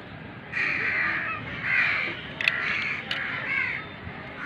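A bird calling over and over outdoors: about four calls, each under a second long, with two short sharp clicks near the middle.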